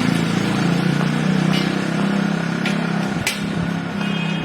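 Small engine running steadily with an even low hum, as from a motor scooter in street traffic. Three sharp clicks sound in the middle, and a short high beep comes near the end.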